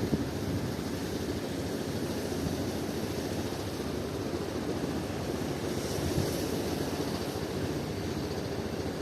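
Strong wind buffeting the microphone over the steady noise of surf.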